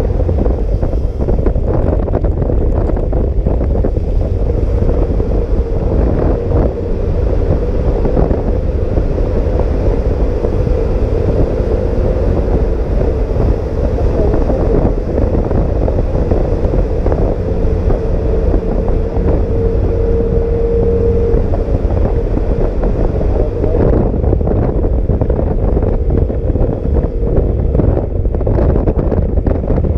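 Wind buffeting hard on the microphone of a moving scooter, with the engine's steady hum running underneath.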